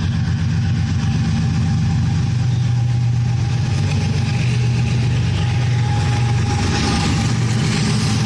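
Pakistan Railways GU40 diesel-electric locomotive's engine running with a steady low drone, a hiss growing louder near the end.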